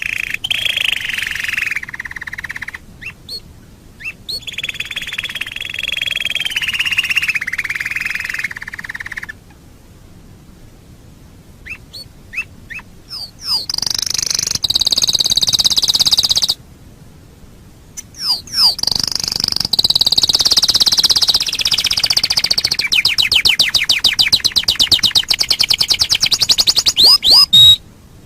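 Domestic canary singing in long phrases: rolling, warbling trills first, then after a short pause, higher phrases ending in a long run of fast repeated notes that stops shortly before the end.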